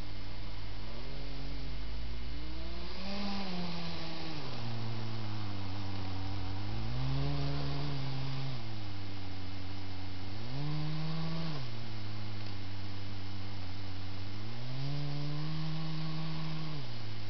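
Electric drive motors and gearing of a Kyosho Blizzard RC snow groomer, whining steadily, the pitch rising and falling four times as the model speeds up and slows down.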